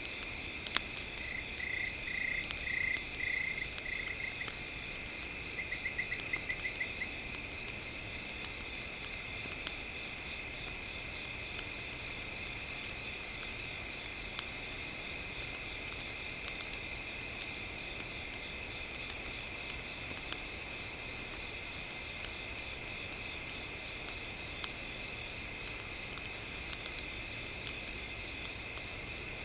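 Night insect chorus: crickets trilling steadily at several high pitches, with a pulsing chirp of about two a second setting in about a quarter of the way through. A single sharp click about a second in.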